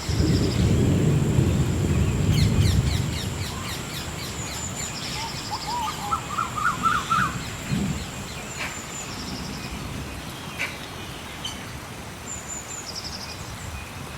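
Rainforest ambience: several birds calling with short chirps, trills and a quick rising run of notes, over a steady high-pitched whine that stops about ten seconds in. It opens with a loud low rumble lasting about three seconds.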